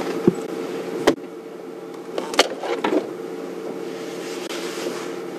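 Steady low mechanical hum with several sharp clicks and knocks in the first three seconds.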